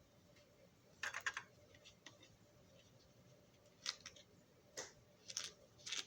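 Small hard parts being handled on a workbench: a short rattle of clicks about a second in, then a few scattered clicks and brief rattles toward the end.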